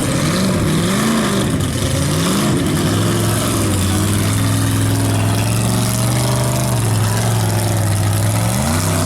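Chevy mega truck's engine being throttled: three quick revs up and down, then held at steady high revs for several seconds, with a brief dip and another rise near the end.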